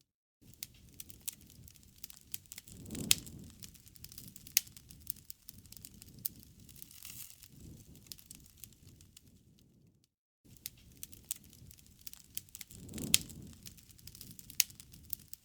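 Campfire crackling: irregular sharp pops and snaps over a low rumble of burning. It cuts out twice for a moment, just at the start and about ten seconds in, where the looped recording restarts.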